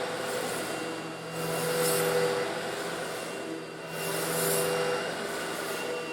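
Eureka vacuum cleaner running steadily while sucking up coarse stone granules, with a louder hissing surge twice, about two and a half seconds apart, as grit is drawn in.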